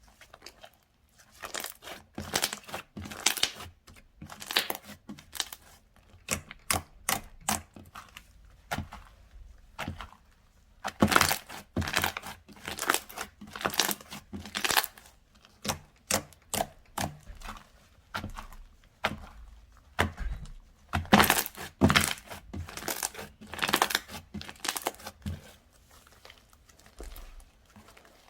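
Slime being squeezed, stretched and pressed by hand, giving irregular clusters of sharp crackling and popping clicks. The clicks come thickest in two spells in the middle and thin out near the end.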